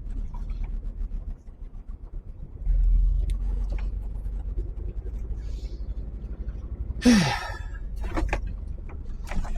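Lorry engine rumbling low in the cab as the HGV drives, getting louder about three seconds in. A short loud hiss comes about seven seconds in.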